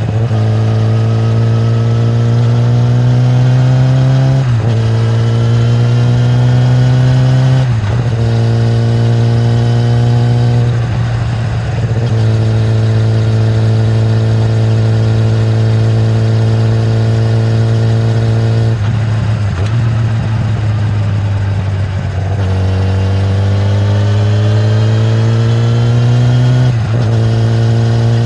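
2013 Kawasaki ZX-10R's inline-four engine through its stock exhaust, accelerating through the gears. The pitch climbs for three or four seconds at a time and drops briefly at each upshift. It holds a steady cruising note for several seconds midway.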